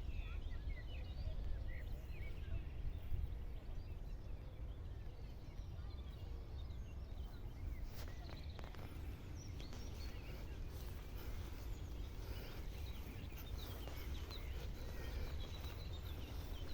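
Outdoor ambience: a steady low rumble, like wind on the microphone, with faint scattered bird chirps.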